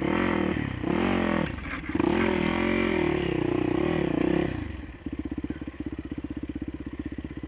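Dirt bike engine revving up and down. About four and a half seconds in it drops to a low, steady idle.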